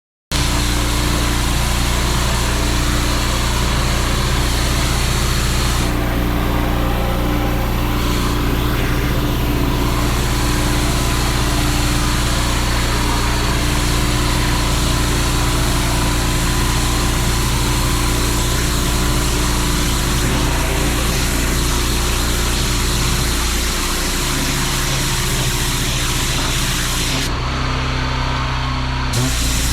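Pressure washer engine running steadily under the hiss of the water jet spraying onto paving. The spray hiss drops away briefly a couple of times while the engine keeps running.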